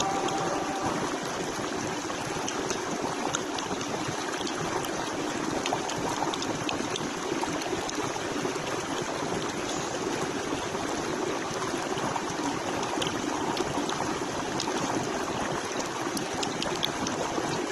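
Steady rushing of running water, with faint scattered clicks.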